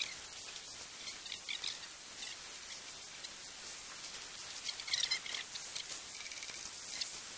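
Birds chirping in a few short bursts over a steady high hiss of outdoor air, with no thunder or wind rumble.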